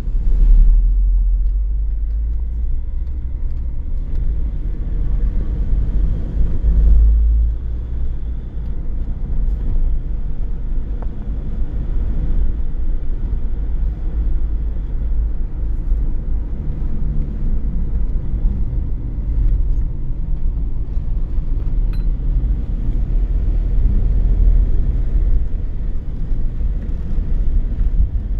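A car being driven: steady low engine and road rumble as heard from inside the cabin, swelling briefly just after the start and again about seven seconds in.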